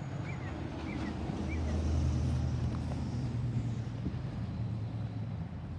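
A vehicle engine running with a steady low hum that swells over the first two seconds and then holds, with three faint short chirps in the first two seconds.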